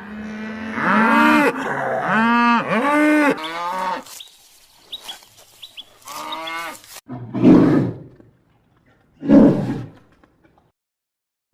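Farm animals calling: a quick run of short, pitched calls that rise and fall in the first four seconds, then after a pause two loud, rough calls about two seconds apart.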